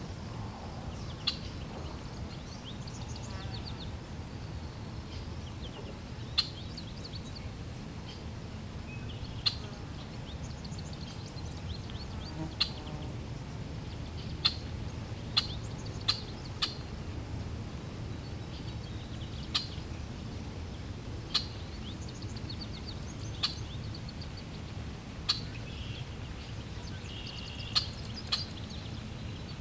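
Water flowing steadily, a low rushing noise, with birds chirping over it: about a dozen sharp short chips a second or two apart stand out as the loudest sounds, among softer twittering.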